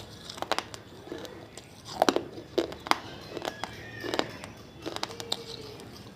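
Water-soaked clay diyas (small earthen lamps) being crunched: a series of irregular sharp cracks and crunches, the loudest about two to three seconds in.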